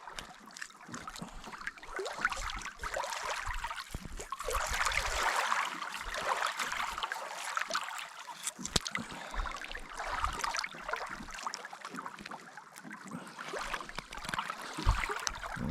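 A fish being filleted with a knife: irregular cutting, scraping and handling noises that swell and fade, with small clicks throughout.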